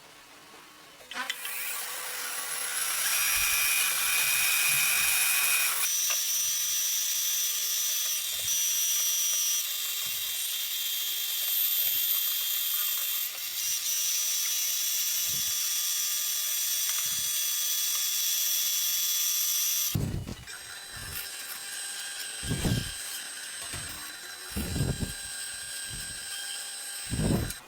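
Handheld electric power tool running at high speed with a steady whine for about nineteen seconds, its tone changing a couple of times as it works, then stopping. Several knocks and clunks follow near the end.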